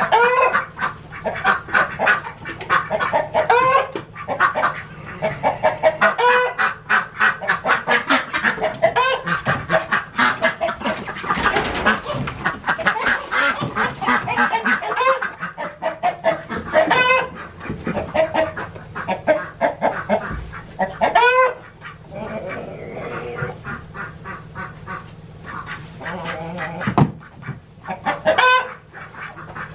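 Domestic ducks quacking and honking in rapid, excited runs, with a few single louder calls later on, as they are cornered and chased.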